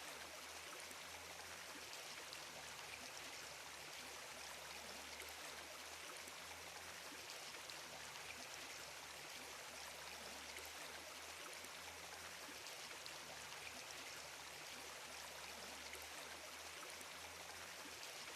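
Faint, steady hiss of running water, even and unbroken, over a low hum.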